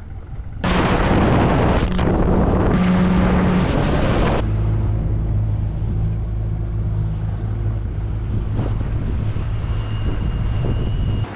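Motorboat engine running steadily under way, with heavy wind rush on the microphone for the first few seconds before the engine's steady hum takes over. The sound cuts off suddenly near the end.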